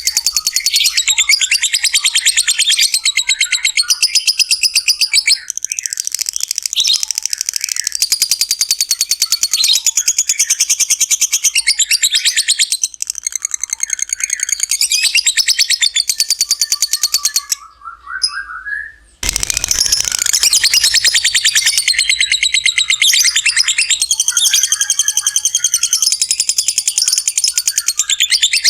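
Lovebird's long ngekek: a very rapid, high-pitched chattering trill held for several seconds at a time with brief breaks. About two-thirds through it drops out for a second or so, leaving a short lower call, then resumes.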